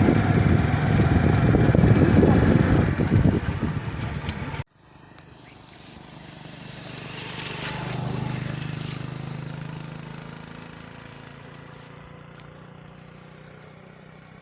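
A motor vehicle's engine running close and loud, with rushing noise, cutting off suddenly about four and a half seconds in. Then a quieter vehicle hum rises and fades away, as of one passing at a distance.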